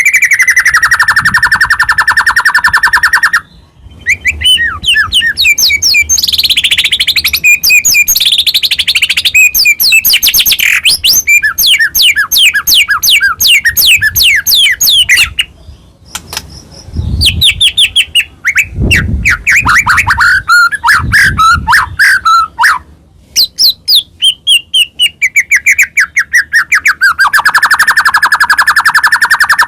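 White-rumped shama (murai batu) singing loudly in a rapid, varied song: a fast buzzy trill sliding down in pitch, then runs of quick whistled notes and trills broken by two brief pauses, and the fast falling trill again near the end.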